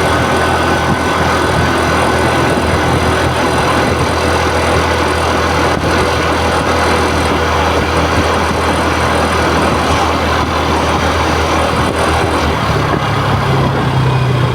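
TVS Jupiter 113 scooter's single-cylinder four-stroke engine running steadily, with the abnormal engine noise the owner is showing. Near the end its low hum shifts and grows stronger, as the engine speed changes.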